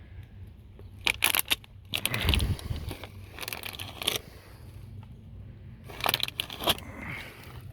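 Footsteps crunching and crackling through dry twigs and leaf litter, in four irregular bursts with one heavier thud about two seconds in.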